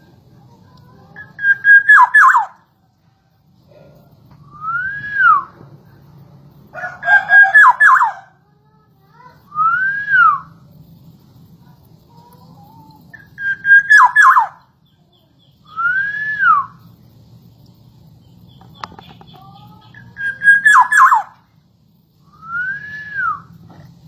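Black-naped oriole (kepodang) calling: a short stuttering whistle followed by a fluty whistle that rises and falls, the pair repeated four times about every six seconds.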